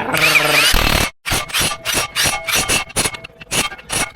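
A power tool running briefly, its pitch rising and falling, stops sharply about a second in. It is followed by a steady series of scraping strokes, about three a second.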